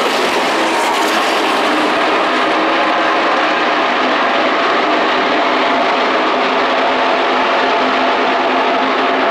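NASCAR Camping World Trucks' V8 engines running at racing speed, a loud, steady drone of the pack with several engine pitches held nearly level.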